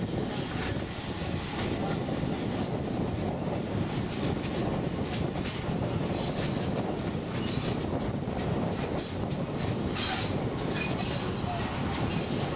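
Old sugar-cane train of the St. Kitts Scenic Railway rolling along the track, heard from an open-sided carriage: a steady rumble of wheels on rails with irregular clicks and rattles.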